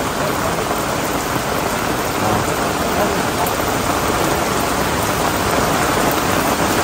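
Heavy rain pouring steadily, pattering on the fabric umbrellas overhead.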